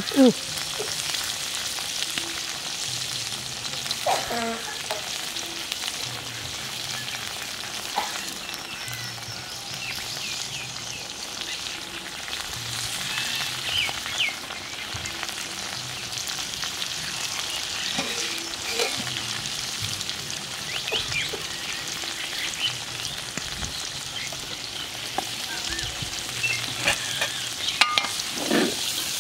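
Garlic paste, onion and chili powder frying in hot oil in a metal karahi over a wood fire, with a steady sizzle: the spice base of a fish curry being fried. A few sharp clinks of a metal ladle against the pan, one near the end as the mix is stirred.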